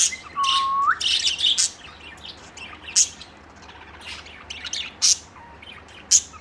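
Pet budgies chirping: a held whistle that rises sharply at its end, over busy chatter in the first second, then a few short, sharp chirps spaced a second or two apart.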